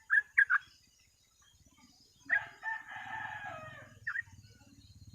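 Three short, sharp bulbul notes in the first half-second and another near the end, with a rooster crowing for about a second and a half in between.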